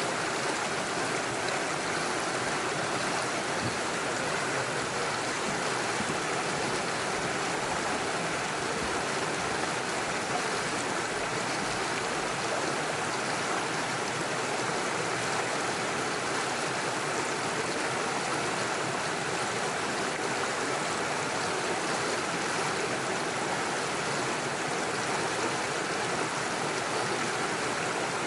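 Small rocky stream with little waterfalls, water rushing and splashing steadily over stones.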